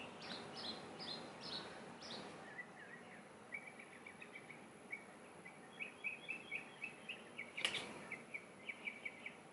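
Faint birdsong: a run of short, downward-sweeping chirps in the first two seconds, then a quicker string of short chirps. A single sharp click about three-quarters of the way through.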